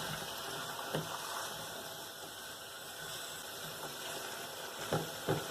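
Cauliflower and potato curry sizzling and bubbling in a pan of oil just after water has been added, with a spoon knocking against the pan about a second in and twice near the end.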